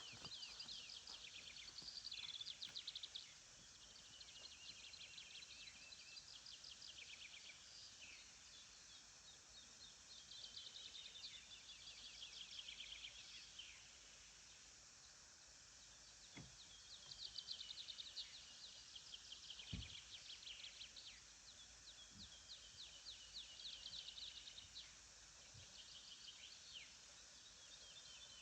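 Small songbirds singing: fast, high trilled phrases a couple of seconds long, repeated with short pauses over a faint steady hiss. A couple of soft low thumps in the second half.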